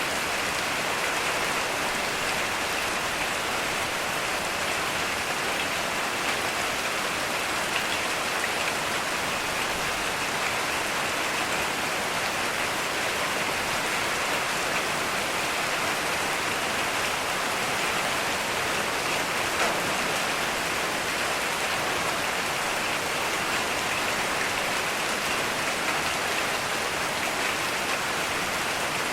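Heavy rain falling steadily, an even hiss of countless drops with no thunder.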